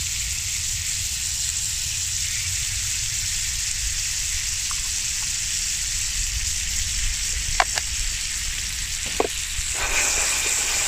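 Breaded giant puffball slices frying in a non-stick pan with pieces of butter added: a steady sizzle. There are a few light clicks in the second half, and the sizzle grows louder near the end as the pan is shaken.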